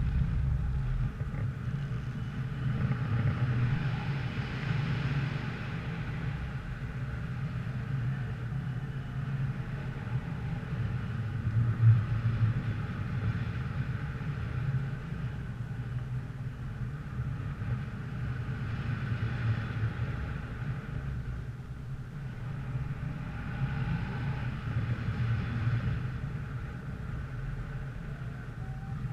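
Wind buffeting an action camera's microphone: a steady low rumble with a hiss that swells and fades in gusts every few seconds.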